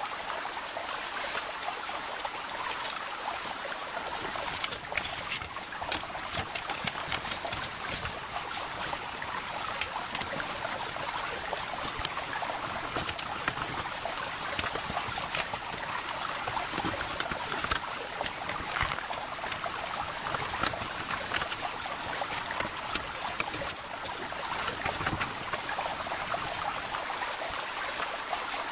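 Steady heavy rain: a continuous hiss with many small drop taps, water trickling and running off, and a steady high-pitched hum over it.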